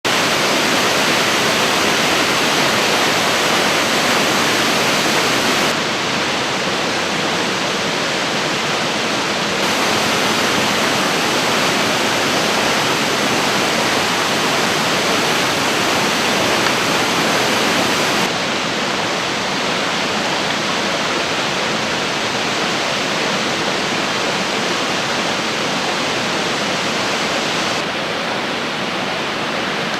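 Waterfall in a mountain gorge: a steady, loud rush of falling water, its level and brightness shifting abruptly a few times.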